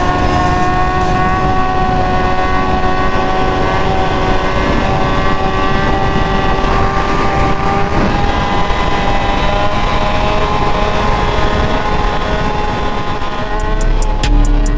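Sportbike engine running at steady high revs under a rush of wind and road noise, its note holding nearly level while riding. Near the end, music with a heavy bass and beat comes in over it.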